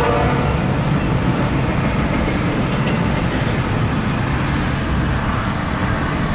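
Norfolk Southern intermodal freight train's double-stack container well cars rolling past close by, a steady rumble of steel wheels on rail. A train horn dies away about half a second in.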